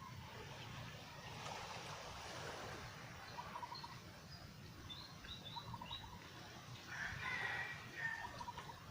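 Outdoor birdsong: short, rapid chirping trills repeat several times over a steady background hum, with scattered high chirps and a louder call about seven seconds in.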